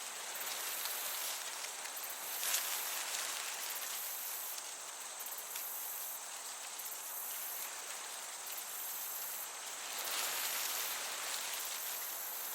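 Crickets chirping in a continuous high trill over the hiss of a light breeze through meadow grass; the breeze swells briefly about two seconds in and again near the end.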